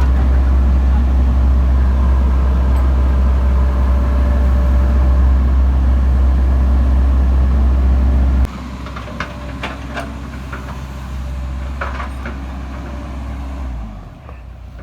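Isuzu 4HK1 four-cylinder diesel engine of a JS220 excavator running with a steady low hum. It is running again now that a new cam sensor and engine wiring harness have cured its no-start fault. About eight seconds in the sound drops suddenly to a quieter running note, with a few sharp clicks.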